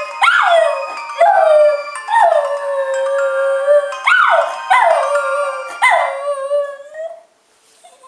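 Miniature schnauzer howling along to a Palm Treo ringtone: a string of about six howls, each starting high and sliding down to a held note, with the ringtone's steady electronic tones beneath. The howling stops about seven seconds in.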